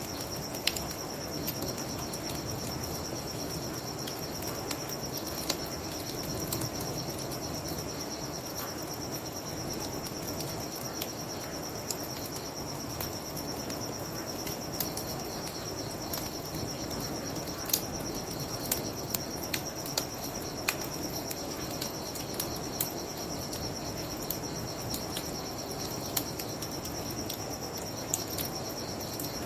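Crickets chirping in a steady high trill over a crackling bonfire, its sharp pops scattered irregularly, the loudest about two-thirds of the way through, with a constant low rushing underneath.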